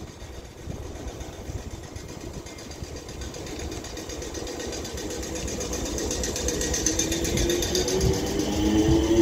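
A train running and growing steadily louder, with a motor whine that rises in pitch over the last couple of seconds as it picks up speed.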